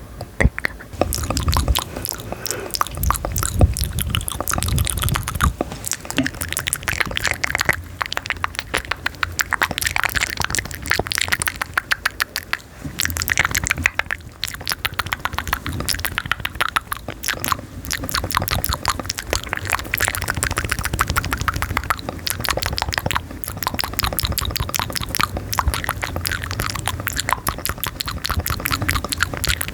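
Rapid, dense clicking and crackling right up against the microphone, with a soft low rumble underneath, running on without a break.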